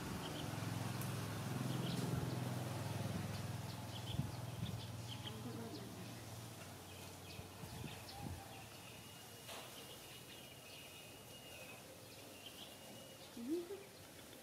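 Birds chirping in the background over a low steady hum that fades out about six seconds in, with a few faint clicks and a short rising squeak near the end.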